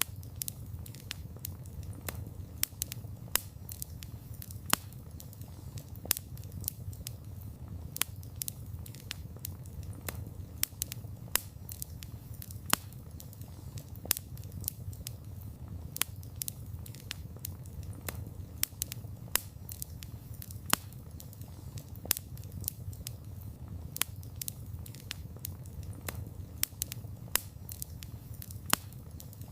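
Wood campfire burning, with dense, irregular crackling and sharp pops several times a second over a low, steady rumble of the flames.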